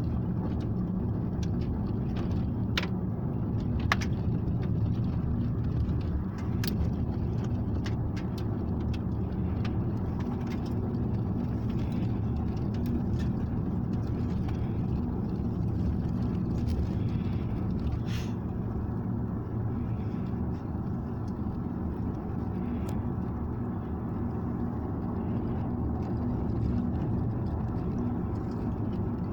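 Car on the move: a steady low engine and road rumble, with scattered small clicks and knocks.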